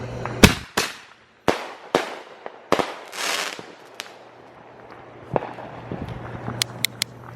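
Consumer fireworks going off: a string of sharp, irregularly spaced bangs, the loudest about half a second in. There is a hissing burst around three seconds in and a quick run of cracks near the end.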